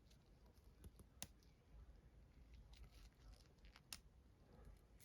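A few faint, sharp clicks and snaps of printed resin miniatures being snapped off their supports, the clearest about a second in and near four seconds, over a low room hum.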